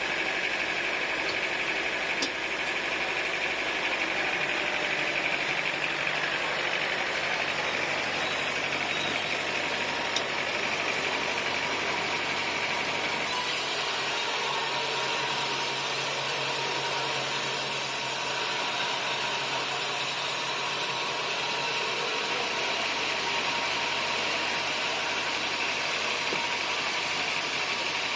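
Sawmill machinery running steadily with an engine-like drone, with a couple of faint knocks.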